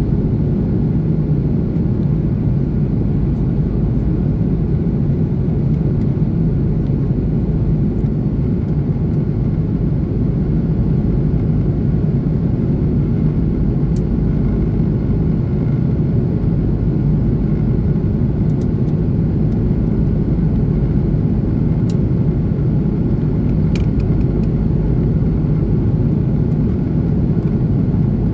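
Steady cabin drone of an Airbus A330-300 with Pratt & Whitney engines, engine and airflow noise heard from inside the passenger cabin, a deep, even rumble with a faint low hum.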